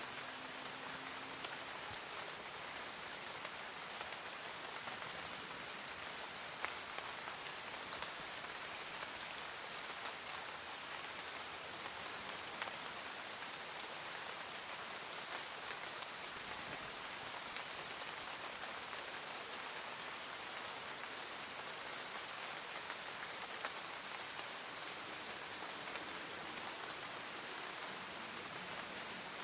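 Steady rain falling, an even hiss with many small scattered drop hits.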